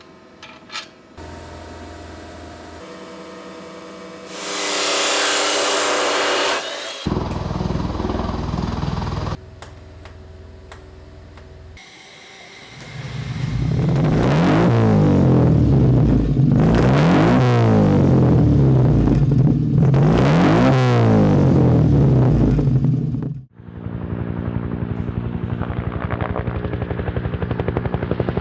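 Car engine revved up and down several times through its exhaust, then settling to a steady throbbing idle. Before it, a loud hiss of a few seconds.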